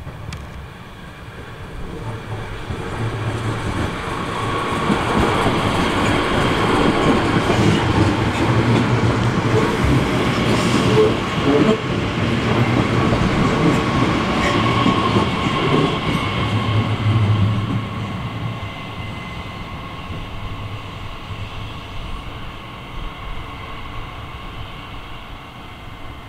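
DB Class 442 Talent 2 electric multiple unit passing close by: wheels running on the rails with a steady electric whine and a few sharp clicks near the middle. It builds up over the first few seconds, stays loud for about twelve seconds, then fades as the train moves away.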